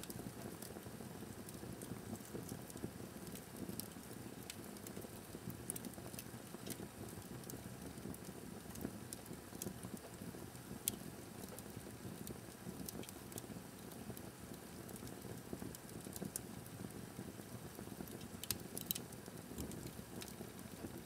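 Fire burning in a fireplace: a low steady rush of flames with scattered sharp crackles and pops, one louder pop about halfway through and a small cluster near the end.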